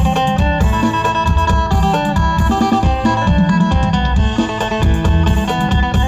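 Phin, the Isan plucked lute, playing a quick run of plucked notes over a steady, pulsing bass beat.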